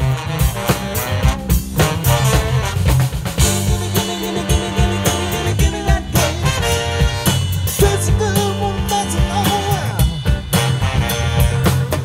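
Funk band with a horn section playing an instrumental groove: a steady drum-kit beat under a bass line and melodic riffs.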